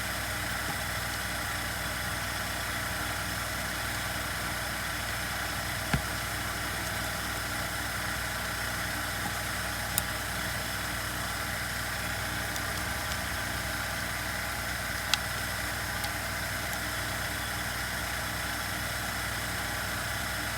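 Steady background hum with a few sharp small clicks of parts being handled during chainsaw reassembly.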